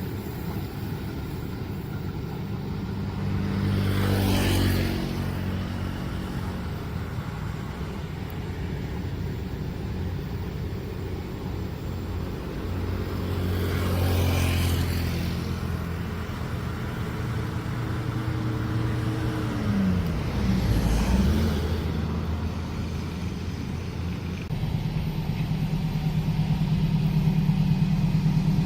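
Road vehicles passing one after another, with three louder pass-bys; the third engine's pitch dips and rises as it goes by. Near the end a steady engine drone comes in and slowly grows louder.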